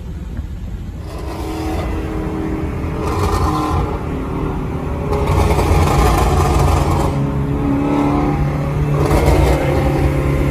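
Ford Shelby GT350's V8 running loud through an aftermarket exhaust, accelerating in several throttle surges and growing louder over the first few seconds.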